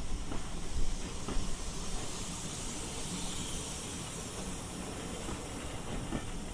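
Steam locomotive hissing steam, the hiss swelling around the middle and then easing, over a steady low rumble.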